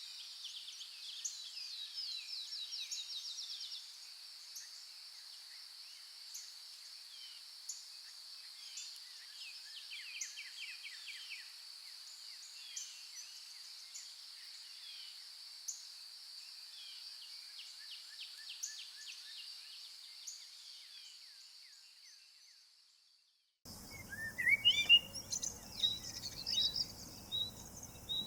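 Forest birds singing, with rapid trills and scattered chirps, over a steady high-pitched buzz. This fades out to silence about 22 seconds in. Moments later a louder, closer bird chorus of sharp chirps starts abruptly over a low rushing background.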